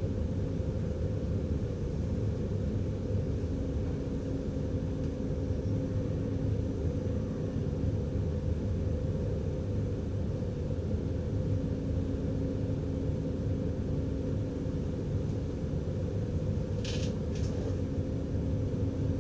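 NS DDZ double-deck electric train running, heard from the driver's cab: a steady low rumble with a constant hum. Near the end come two brief high squeaks.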